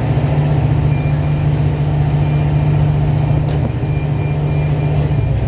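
Car engine idling with a steady deep rumble. A faint high beep repeats alongside from about a second in.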